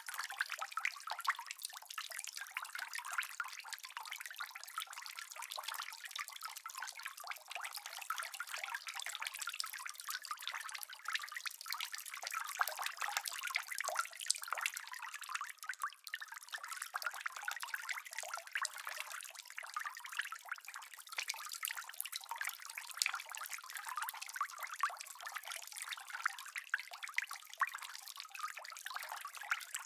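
Steady rain: a dense, even patter of countless small drops, all crisp and high with no low rumble.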